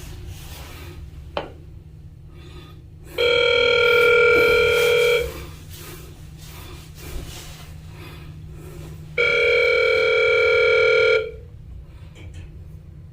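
Telephone ringback tone heard through a phone, two rings of about two seconds each, six seconds apart: the line ringing at the other end while the call waits to be answered.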